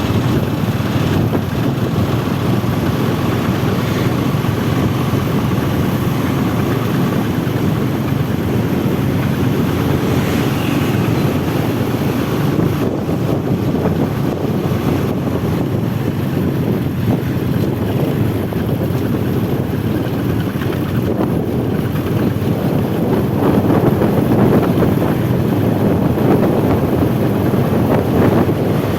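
Steady rumble of heavy road traffic climbing a hill, with wind buffeting the microphone.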